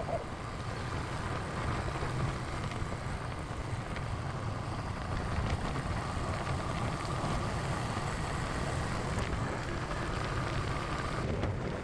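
Motorcycle riding at highway speed: a steady engine and road rumble with wind noise. A faint steady whine cuts off near the end.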